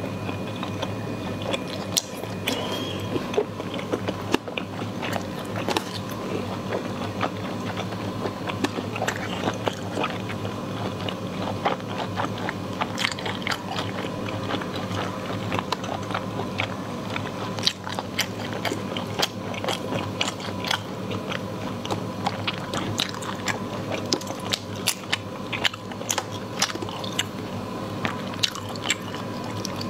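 A person eating close to a clip-on microphone: wet chewing and biting with many sharp mouth clicks and small crunches, over a steady low hum.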